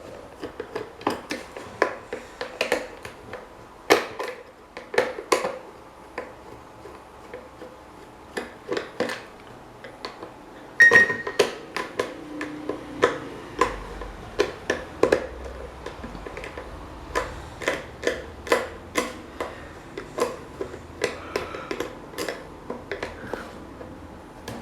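Irregular clicks, taps and clinks of hand tools and small metal parts of an old electric desk fan being worked on, with one louder ringing clank about eleven seconds in.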